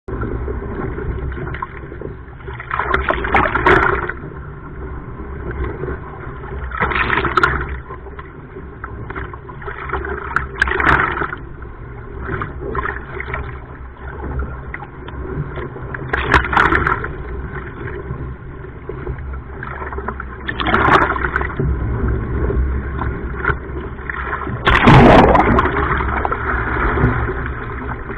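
Sea water splashing and sloshing around a surfski, in surges every few seconds, the loudest near the end, over a steady rumble of wind on the microphone.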